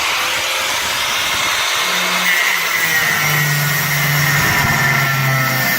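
Power cutting tool slicing through the sheet-steel bulkhead of a Mk5 Ford Cortina: a loud, steady cutting noise with a whine that shifts a little in pitch as it bites.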